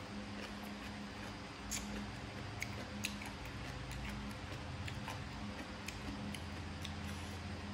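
Mouth sounds of someone eating papaya salad and grilled pork: scattered small clicks and smacks of chewing, over a low steady hum.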